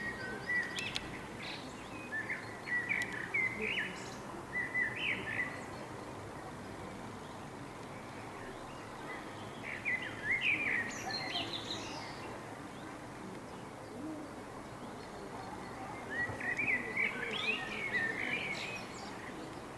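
Common blackbird singing: short warbled phrases of quick rising and falling notes, separated by pauses of several seconds, over a steady background hiss.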